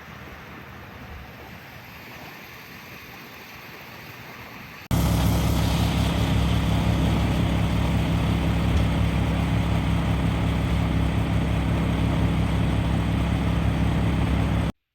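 Boat's outboard motor running steadily under way: a loud, even engine hum that starts suddenly about five seconds in, after a quieter steady rush of noise, and cuts off abruptly near the end.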